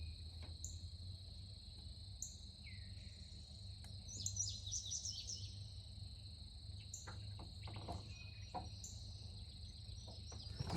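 Insects trilling steadily at a high pitch, with short bird chirps repeating every second or so and a brief burst of bird song about four seconds in, over a faint low hum.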